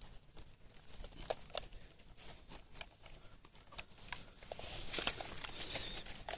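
Scattered crunches and rustles of footsteps on dry leaves and grass, with leaves and stems brushing against someone moving slowly through undergrowth.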